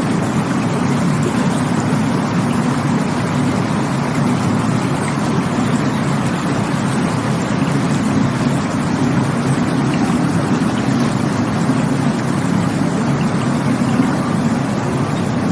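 Rushing water of a stream or waterfall, a steady, full, unbroken rush with its weight in the low range.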